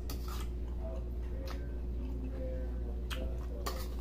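Eating noises: a few sharp, separate clicks and smacks from a man chewing a mouthful and working a metal spoon in a plastic rice bowl, over a steady low hum.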